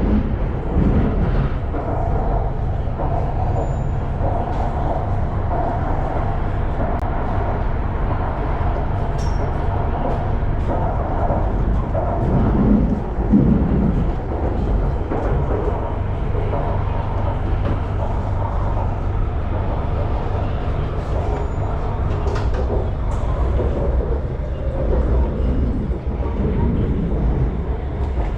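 Inside a Bangkok BTS Skytrain car, the train running along the elevated line: a steady low rumble of wheels and motors, with faint voices in the car.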